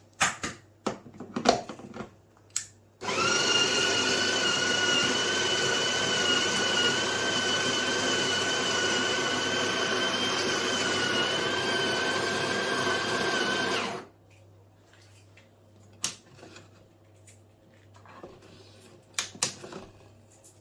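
De'Longhi Specialista Prestigio espresso machine's built-in grinder grinding coffee beans: a steady motor whine for about eleven seconds that cuts off sharply. Clicks and knocks of handling come before and after it.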